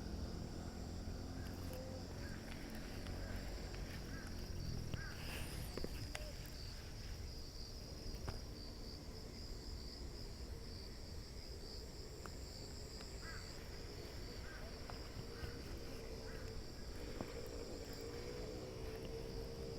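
Insects chirping steadily outdoors in a high, pulsing band, over a low rumble with a few light clicks. In the last few seconds a steady hum with several tones joins in.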